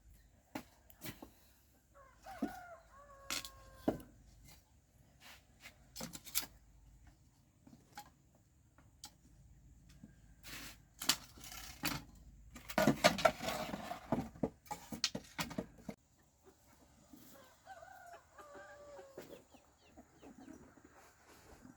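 A rooster crowing twice, once about two seconds in and again near the end, among scattered sharp knocks and clicks. A louder, noisy rustling burst comes in the middle.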